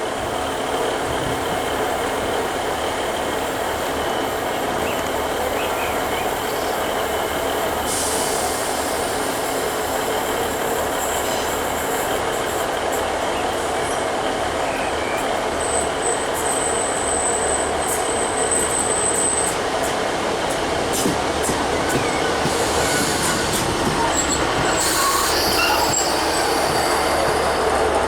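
Passenger train running at the station platform, a steady rumble that grows slowly louder, with high-pitched wheel squeal on the rails about halfway through and again near the end.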